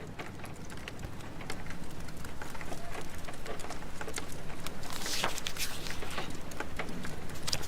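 Rain and fireplace ambience: steady rain patter with many small sharp crackles and pops of a burning fire, fading in over the first second and a half.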